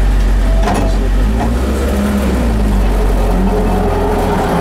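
Rally car's engine idling, heard inside the cabin, with a short knock a little under a second in.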